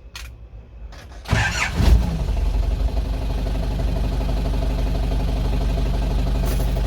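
Nissan BD30 four-cylinder diesel engine cranking briefly and catching just over a second in, then settling into a steady idle. It fires at once without waiting to warm up.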